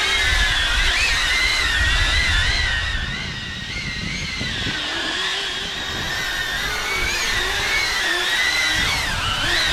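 Xpert Guard X8 caged drone hovering, its propellers whining steadily with the pitch wavering up and down as the motors adjust. A low rumble sits underneath and eases about three seconds in.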